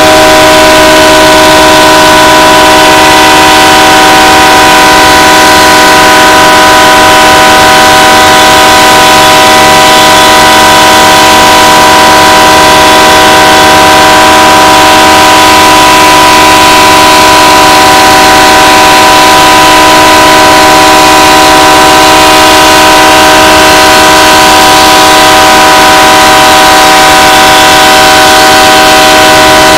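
BNSF diesel locomotive's multi-chime air horn blowing one continuous chord of several notes, very loud and unbroken. It is sounding nonstop because the train has been left stopped with no engineer aboard to shut it off.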